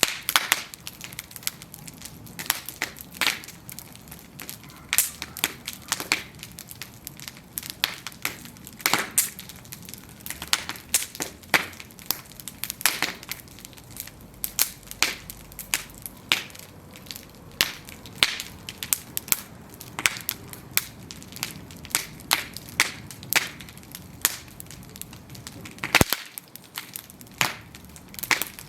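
Bonfire of burning wooden planks crackling, with frequent sharp pops and snaps at irregular intervals over a low steady hiss of flame.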